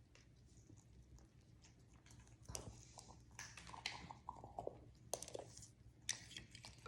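Faint sounds of an African grey parrot: soft low chatter with a few sharp clicks and taps, the loudest taps around the middle and about a second before the end.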